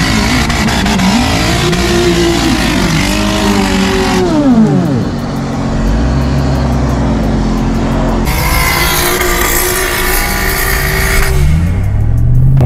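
Off-road 4x4's engine revving hard under load, its pitch rising and falling over and over, then held high for several seconds. The sound changes abruptly about four and eight seconds in.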